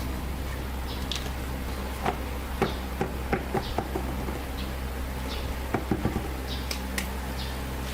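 A series of light, irregular knocks and clicks, bunched together after about two seconds, over a steady low hum.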